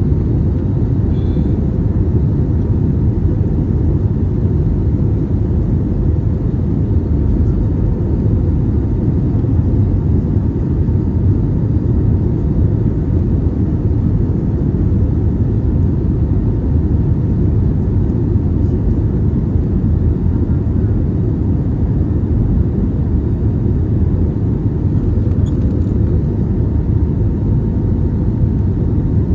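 Steady cabin rumble of an Airbus A320neo in flight, heard from a window seat: engine and airflow noise, deep and even throughout, with a faint steady hum above it.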